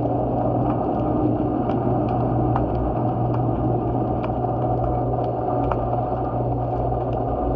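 A steady low hum over a dense rumble, with scattered sharp clicks a few times a second.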